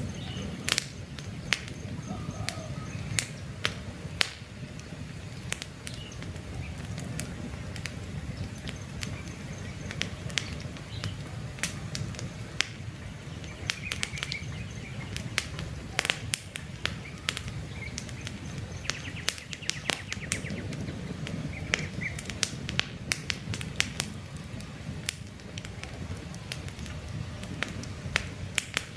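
Wood campfire burning, its low steady rumble broken by frequent sharp crackles and pops at irregular intervals, with faint short bird chirps now and then.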